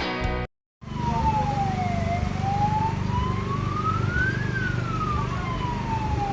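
Music breaks off sharply, then a diesel truck engine runs steadily while a siren wails slowly: its tone falls, rises for about two and a half seconds to a peak, then falls again.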